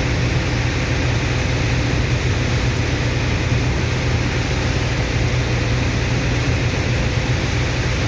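Sand dredger's pump engine running steadily: a constant low drone under an even rushing hiss, with no change in pace.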